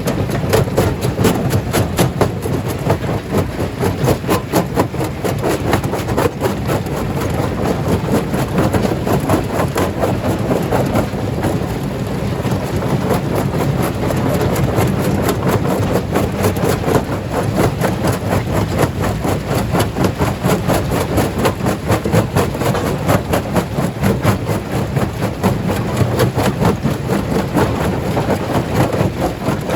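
Stone crusher running under load: a heavy engine drone with continuous, rapid clatter and knocking of rocks being broken.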